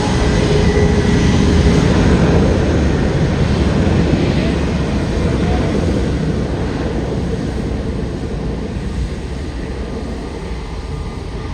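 Narrow-body jet airliner passing close by: a loud jet-engine roar that peaks in the first few seconds, then slowly fades away.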